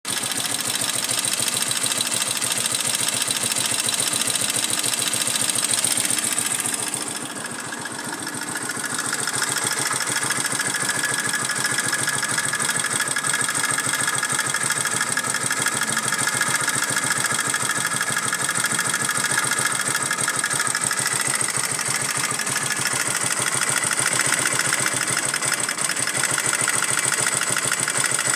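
Motorcycle pushrod single-cylinder engine idling steadily, the strange noise the mechanic is investigating. It quietens briefly about seven seconds in, then runs on as before.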